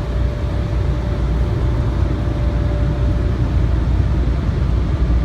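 Automatic car wash machinery running, heard from inside the car: a loud, steady rumble with a constant hum.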